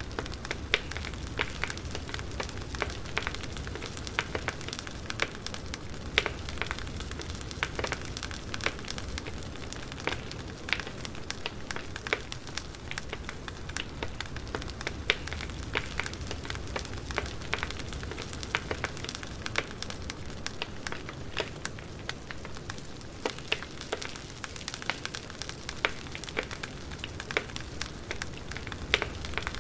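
Wood campfire crackling, with frequent irregular sharp pops and snaps over a steady hiss of burning.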